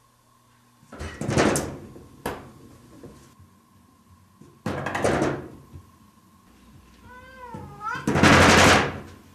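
A cat knocking at a door in three loud bouts. It gives one meow just before the last and loudest bout.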